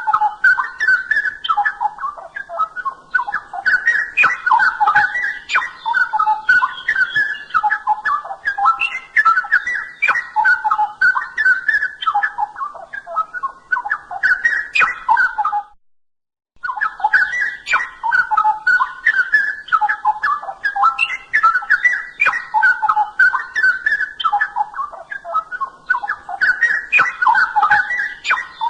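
Straw-headed bulbul (cucak rowo) singing loudly and continuously, a rich run of bubbling, warbling phrases with sharp accented notes. The song breaks off for under a second about halfway through, then carries on.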